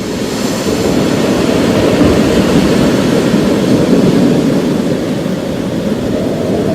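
A long, deep roll of thunder that builds over the first second and then rumbles steadily, over the hiss of rain.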